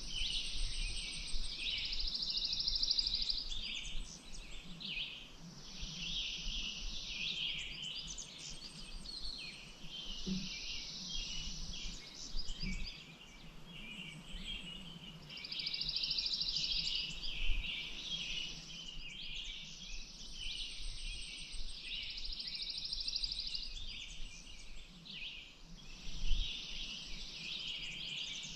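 Wild birds singing and chirping, with a rapid buzzy trill lasting a couple of seconds that recurs every six or seven seconds.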